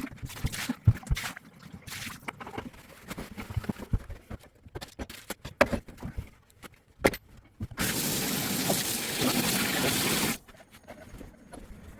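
Scattered clicks and knocks of tools and parts being handled, then water running from a faucet for about two and a half seconds before cutting off suddenly.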